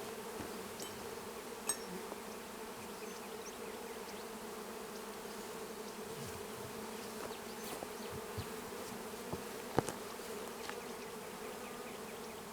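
Honeybees buzzing steadily around a hive into which a package of bees has just been installed, with a couple of light clicks from the hive being handled.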